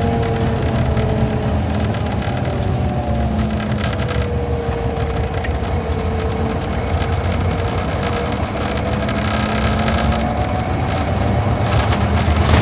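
Isuzu Gala coach's V-type diesel engine and drivetrain under way, heard from inside the bus: a steady low rumble with road noise and a whine whose pitch slowly falls and then rises again as the speed changes.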